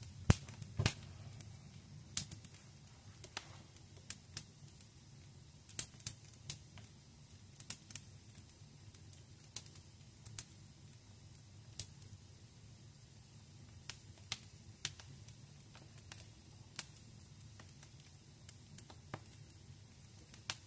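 Wood fire crackling in a fireplace: irregular sharp pops and snaps, a couple louder ones near the start, over a steady low rumble of the flames.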